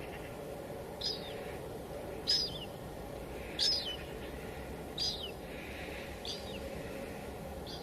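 Light drizzle giving a steady hiss, with a bird calling over it: six short high calls, each dropping in pitch at the end, repeated about every second and a half.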